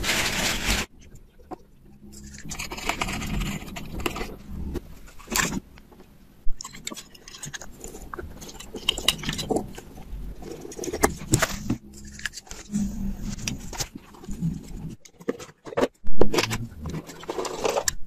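Irregular clicks, scrapes and knocks of small parts and wires being handled, with one loud knock about 16 seconds in.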